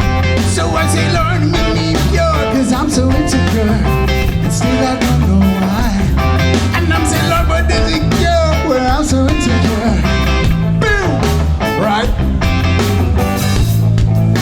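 Live band playing a reggae-style groove through a concert PA, with bass guitar, drums and electric guitar.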